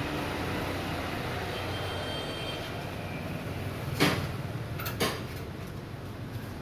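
Steady low rumble of traffic, with two sharp knocks about a second apart past the middle.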